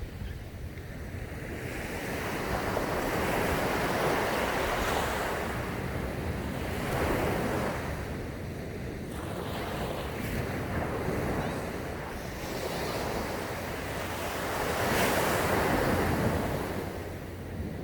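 Sea waves breaking and washing up a sandy beach, surges rising and falling every few seconds, loudest about four and fifteen seconds in. Low wind rumble on the microphone underneath.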